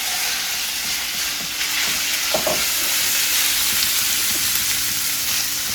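Chicken breast pieces sizzling in hot oil in a wok just after being dropped in: a loud, steady frying hiss, with a few light knocks of stirring.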